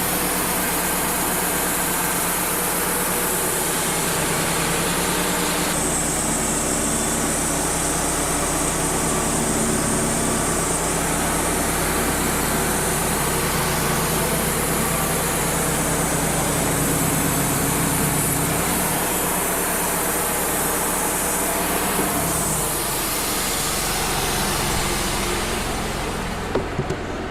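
Wood-Mizer LT35 hydraulic portable sawmill running, its bandsaw blade cutting a board off a red oak log over the engine's steady hum. The high sawing hiss changes about six seconds in and again around twenty-two seconds, and falls away near the end.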